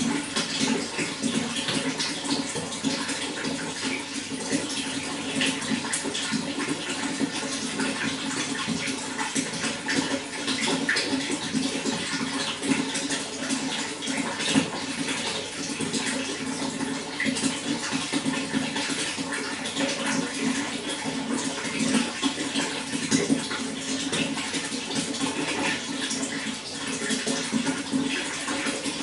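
Running water flowing steadily, with a constant wash of small splashes and no let-up.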